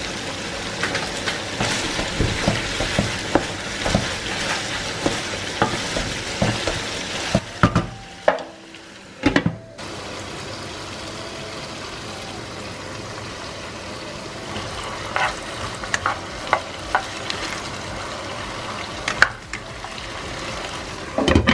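Food sizzling as it fries in a pan, with a spatula clicking and scraping against the pan as it stirs. Chicken pieces fry first; after a short drop in level about halfway through, it is julienned potato and onion frying.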